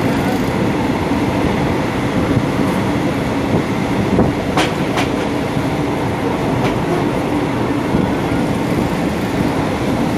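Steady running noise of a moving passenger train heard from inside the carriage, with a few sharp clicks around the middle.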